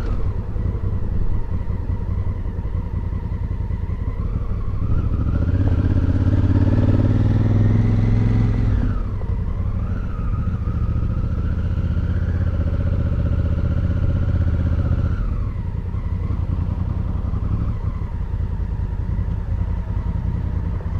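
Motorcycle engine running under way. The revs climb about four seconds in, drop suddenly at a gear change about nine seconds in, climb again, then ease back to a steady lower note for the last few seconds.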